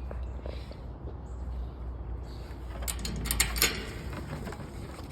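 Low rumble of wind on the microphone, then a brief clattering rattle of clicks about three seconds in.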